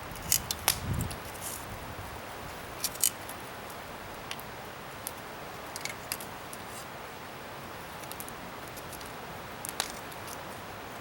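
Garden bonfire of scrap wood burning: a steady hiss with sharp, irregular crackles and pops, a cluster in the first second and a pair about three seconds in.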